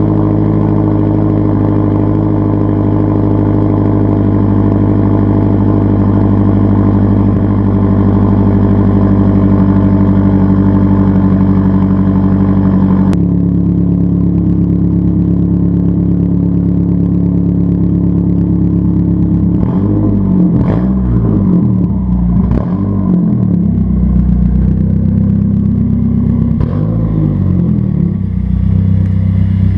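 Straight-piped Mazdaspeed3's turbocharged 2.3-litre four-cylinder running with no catalytic converter or muffler, holding a steady note. Partway through, the scene changes and the engine is blipped, its pitch jumping up and falling back several times in quick succession.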